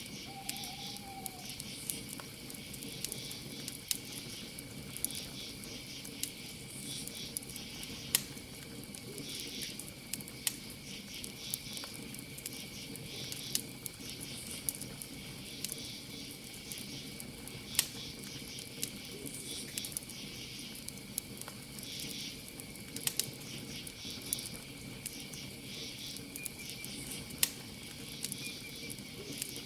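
Campfire crackling, with sharp pops every second or so over a low hiss, against a steady high cricket trill and rhythmic pulsing insect chirps.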